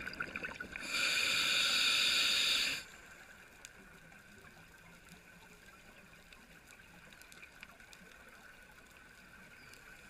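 A two-second rush of water noise about a second in, which stops suddenly, followed by a faint, steady water hiss.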